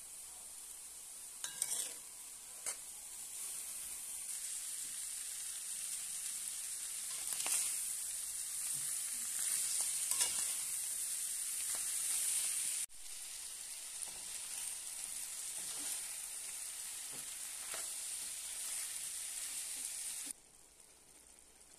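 Ground pork, onion, diced potatoes and carrots sizzling in oil in a frying pan, with a metal spatula scraping and stirring through them now and then. The sizzle drops away sharply near the end.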